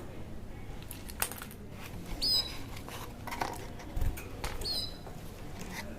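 Small bird chirping twice, short falling chirps about two and a half seconds apart, with a few sharp clicks or taps in between.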